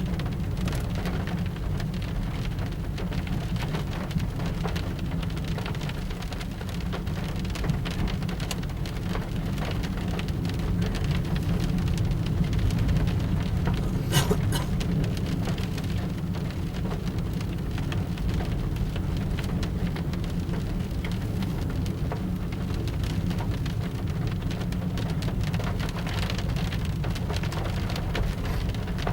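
Steady low rumble of a moving car heard from inside the cabin: road and engine noise with wind buffeting the microphone, and a single sharp click about halfway through.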